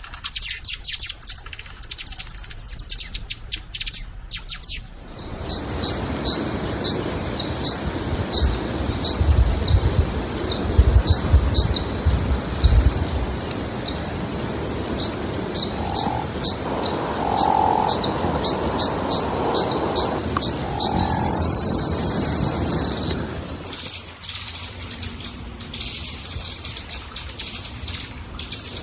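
Bird chirping: a long run of quick, high chirps, with a steady rushing noise underneath from about five seconds in.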